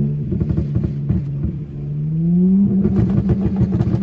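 Dodge Charger's engine running with a pulsing exhaust note, revving up about two seconds in and then holding at the higher pitch.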